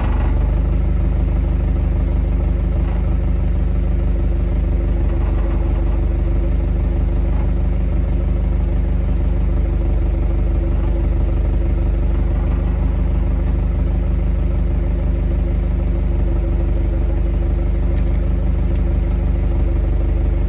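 A vehicle's engine running steadily with an abnormal noise from parts interfering, rubbing or knocking against each other, heard as a constant low hum with a fast, fine rattle over it.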